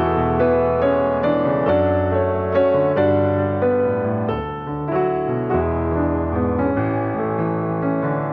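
Slow piano music: repeated notes over held low chords that change every second or two.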